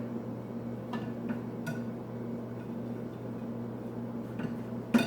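A table knife tapping and scraping against a plate while a thin multigrain pita is cut open: a few light clicks, then a sharp, louder clack near the end, over a steady low hum.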